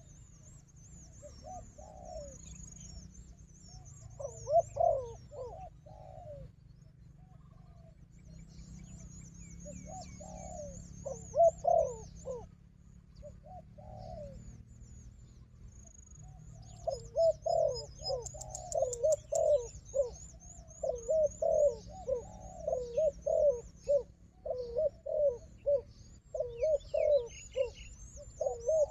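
Spotted doves cooing in short groups of coos at first, then cooing almost without pause for the last dozen seconds. A high-pitched, rapid chirping runs above them.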